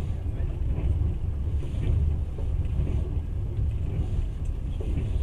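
Passenger train carriage running along the track, a steady low rumble heard from inside the carriage.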